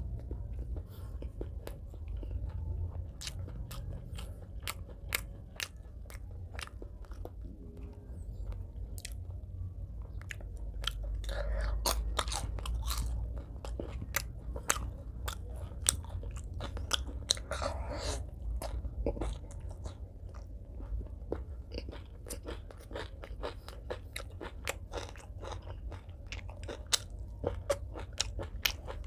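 Close-miked chewing of a mouthful of rice and fried fish, with many short crunches and wet mouth clicks.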